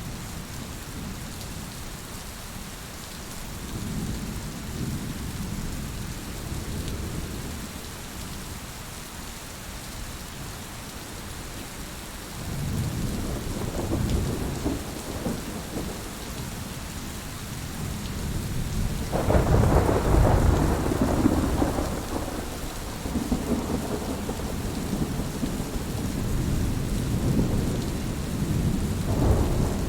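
Heavy rain falling steadily, with rolls of thunder rumbling in several times; the loudest roll comes about two-thirds of the way through.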